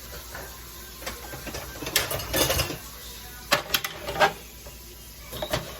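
Salt being dispensed onto sliced onions in short rattling, grinding bursts: a few about two seconds in, a cluster around three and a half to four seconds, and a brief one near the end.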